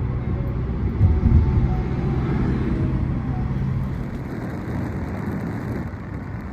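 Motor vehicle engine running close by, a low rumble that peaks about a second in and fades after about four seconds.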